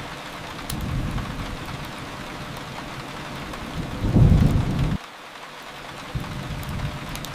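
Steady rain with low rolls of thunder. The loudest roll comes about four seconds in and cuts off suddenly a second later. A few faint sharp crackles sit over the rain.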